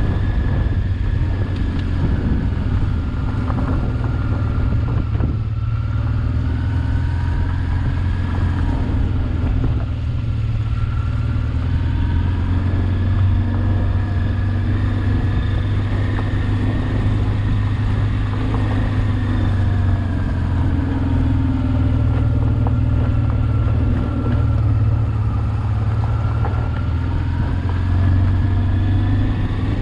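Honda Transalp XL600V's V-twin engine running under way, its pitch drifting gently up and down with the throttle.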